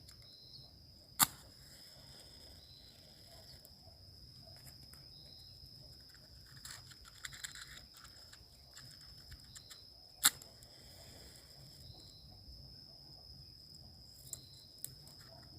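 Crickets chirring steadily at night, with two sharp loud clicks, one about a second in and one after about ten seconds, and a few fainter ticks near the end.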